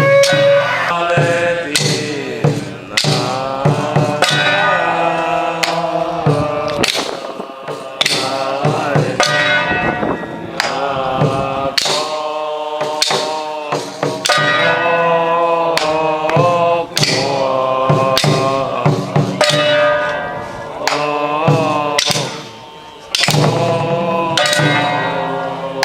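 Taiwanese Taoist ritual music for the oil-boiling purification rite: a wavering chanted melody over regular percussion strikes and ringing bells.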